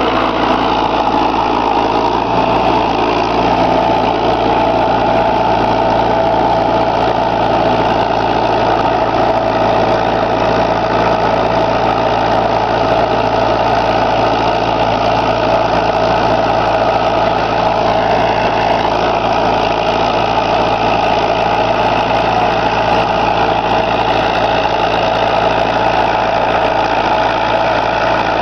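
Preet tractor's diesel engine running steadily at a constant speed.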